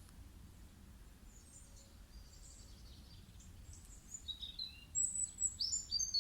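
Songbirds chirping, faint and scattered at first, then a louder run of quick falling chirps in the last two seconds, over a low steady hum.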